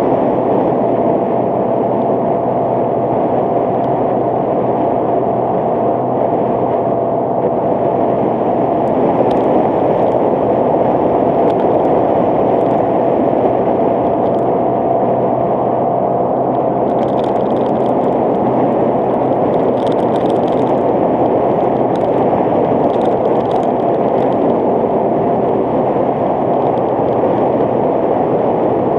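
Motorcycle cruising at a steady speed: an even engine note under heavy wind and road noise, with a thin steady whine.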